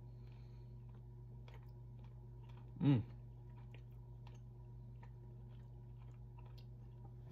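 A person chewing a mouthful of boiled burbot, with faint soft mouth clicks, and one short voiced hum about three seconds in. A steady low electrical hum runs underneath.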